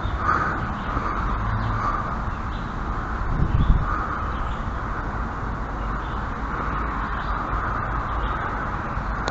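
Steady outdoor background noise with a low rumble and a mid-pitched hiss that swells now and then, and one brief low thump about three and a half seconds in.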